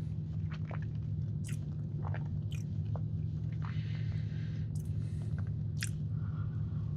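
Close-miked chewing of a soft, cakey chocolate sandwich cookie with marshmallow filling: scattered wet mouth clicks and smacks over a steady low hum.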